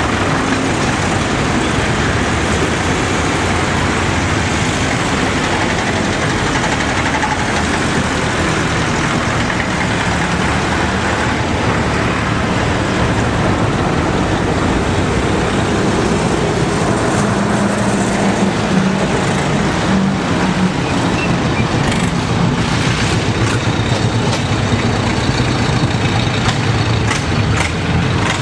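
Tractor engines running steadily, with a few sharp clicks near the end.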